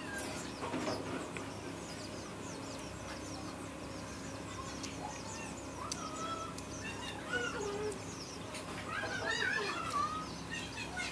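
Birds chirping, with a steady low hum underneath.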